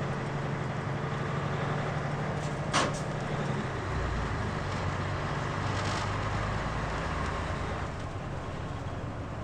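Mitsubishi Fuso KL-MP37JK city bus heard from inside the cabin, its diesel engine droning steadily. About three seconds in there is a short, sharp hiss of compressed air from the air brakes, and a second later the engine note drops lower.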